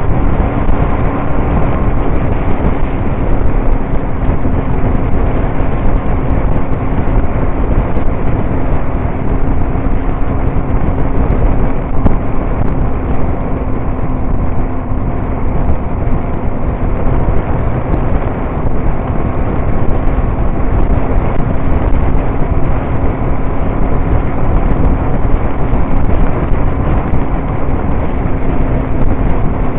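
Motorcycle running at a steady cruise: a steady engine hum under loud, even road and wind noise.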